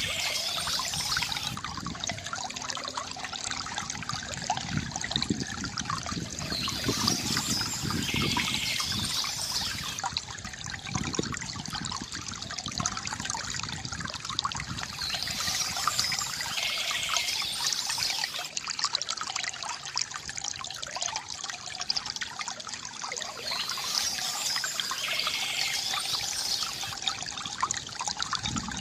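Water trickling and splashing steadily from a bamboo fountain, with a brighter high chirping passage that recurs about every eight or nine seconds, typical of birdsong.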